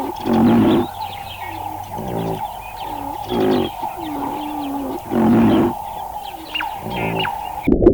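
Animal calls: several short, pitched calls, each under a second and some gliding in pitch, repeated every couple of seconds, cut off abruptly near the end.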